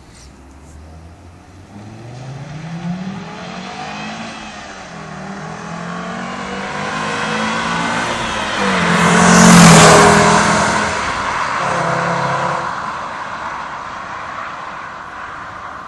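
VW Golf IV V5's 2.3-litre five-cylinder engine with its stock exhaust, accelerating in a few upward pitch sweeps. It grows louder to a peak about ten seconds in as the car passes, then fades.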